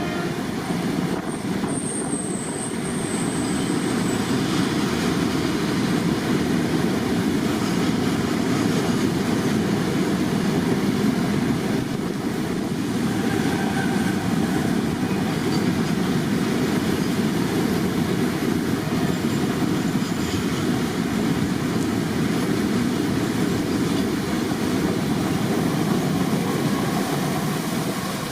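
Freight train wagons rolling past on the track: a steady rumble of wheels on rail, with a brief high squeal about two seconds in.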